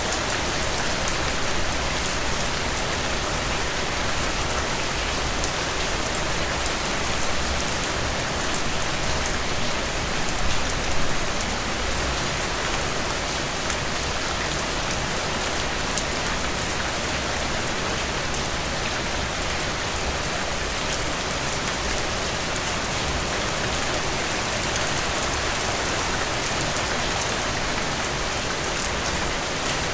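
Heavy rain falling steadily, a dense even hiss with many close drops pattering and dripping on surfaces, a little louder for a moment about ten seconds in.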